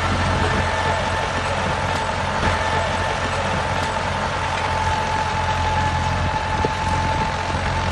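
Steady engine-like drone, like a truck idling, with an even low hum and a thin steady whine above it.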